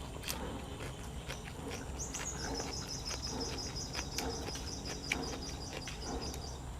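Close-up chewing and crunching of cuttlefish and raw vegetables, heard as scattered sharp clicks. From about two seconds in, a rapid high chirping trill runs in the background for about four seconds and then stops.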